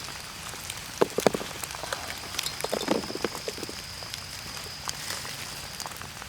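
Rain falling and dripping on leaves and foliage, with many scattered drop ticks. A thin steady high tone runs through most of it, and a few louder soft knocks come about a second in and again around three seconds.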